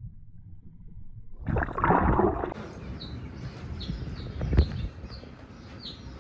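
A low rumble gives way, about a second and a half in, to a brief noisy rush and then a bird chirping over and over, about two short falling chirps a second, with a sharp click near the end.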